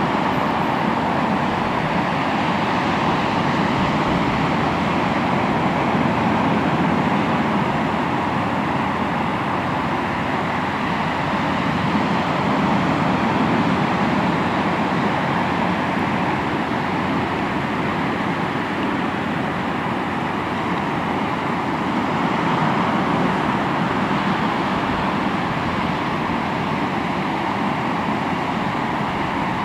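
Sea waves washing onto a shoreline: a steady rush of surf that slowly swells and eases.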